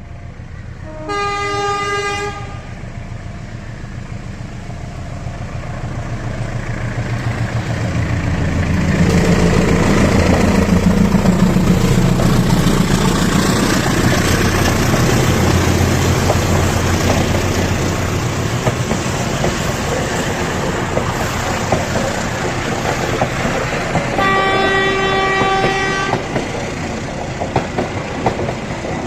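Passenger train passing at speed: the locomotive sounds one horn blast near the start, then the train's rumble and wheel clatter build to a peak and carry on as the cars go by, with a second horn blast near the end.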